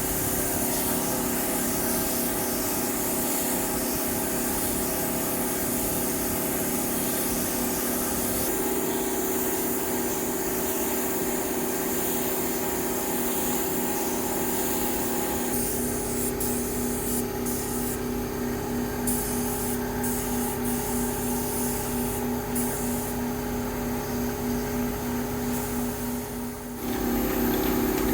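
Woodworking machinery running with a steady motor hum and a rubbing, hissing noise over it. The sound shifts a few times, with a brief dip just before it comes back fuller near the end.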